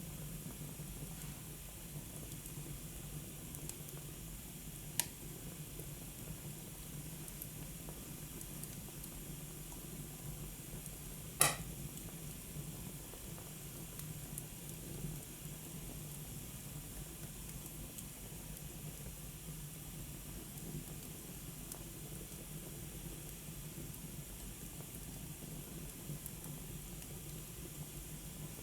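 Wood fire burning in a fireplace: a soft, steady hiss and crackle, with a sharp pop about five seconds in and a louder crack a little after eleven seconds.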